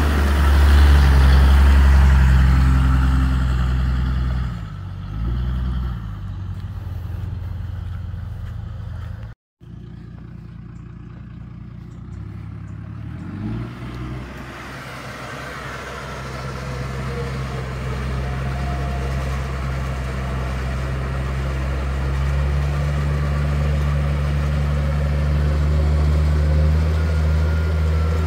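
Car engine running with a steady low drone, its pitch shifting down and back up twice; the sound cuts out for an instant about nine seconds in.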